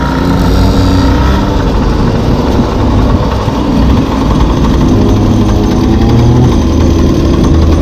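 Small two-stroke gas scooter engine running under way, a loud, rough, buzzy drone whose clear pitch gives way to a denser rattling noise after about a second and a half.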